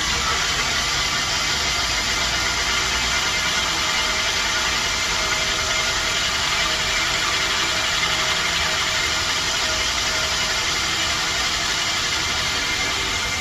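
Old Lennox air-conditioner condensing unit running: a steady hum with the rush of air from its condenser fan, blowing out heat.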